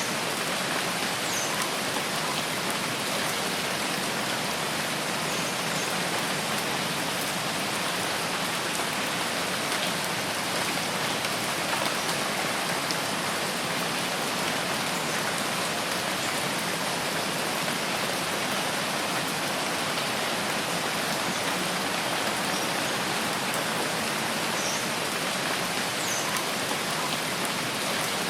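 Steady, even rainfall pattering on foliage and ground, a constant dense hiss with no change in strength, with a few faint short high sounds now and then.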